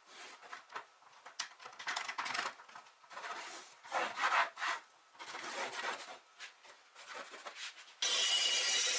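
Hand tool rubbing and scraping on wood in uneven strokes, like hand sanding, rasping or sawing on a chair part. About eight seconds in, a loud steady noise starts abruptly.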